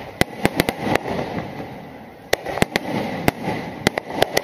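Aerial firework shells bursting overhead: a rapid series of sharp bangs over a continuous rumble, with a lull of about a second in the middle before the bangs pick up again.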